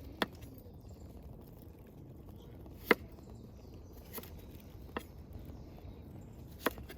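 Five sharp, irregularly spaced clicks or knocks over a faint steady background, the loudest about three seconds in.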